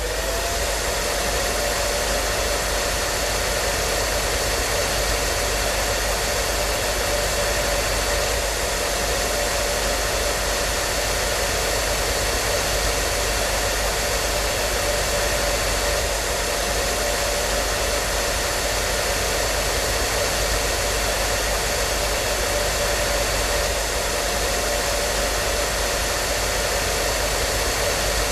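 Hair dryer running steadily: a constant blowing hiss with a steady motor whine, unchanging throughout.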